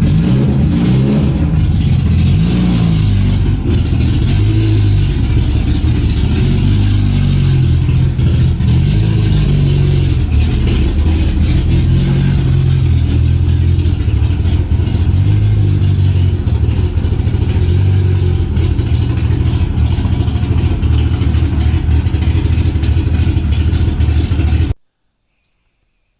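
Honda S2000 engine running while the car is driven, its revs rising and falling. The sound stops abruptly near the end.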